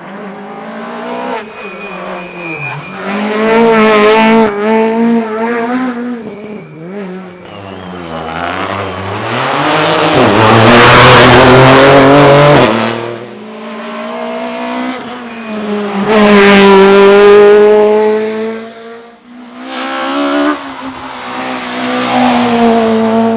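Rally car engine revving hard and dropping back repeatedly, in four loud surges of rising and falling pitch, as it accelerates and brakes through a stage section. A burst of tyre squeal and rushing noise comes about eleven seconds in.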